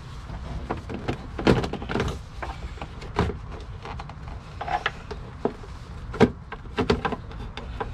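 Plastic clips on a car's air box being unsnapped and the lid and old air filter handled: a string of irregular clicks and knocks, the loudest about a second and a half in and a little past six seconds, over a steady low rumble.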